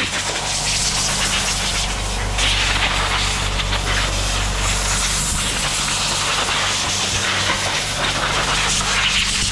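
Aerosol spray paint hissing from the can in long spells as high-temperature engine paint goes onto a Kawasaki jet ski engine, over a steady low hum.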